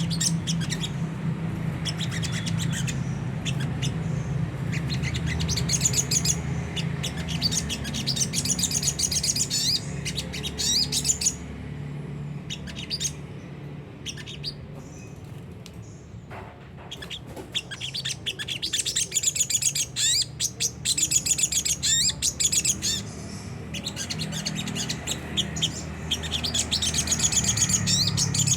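Sogon sunbird giving bursts of rapid, high, rough twittering ('ngriwik kasar'), played as a lure call, with a lull in the middle. A steady low hum runs underneath.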